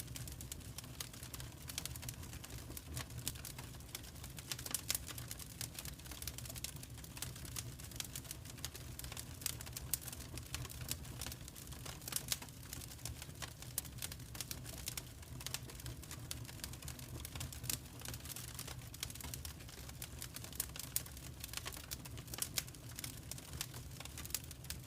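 Wood fire crackling in a fireplace: dense, irregular pops and snaps, a few louder than the rest, over a steady low rumble of the burning fire.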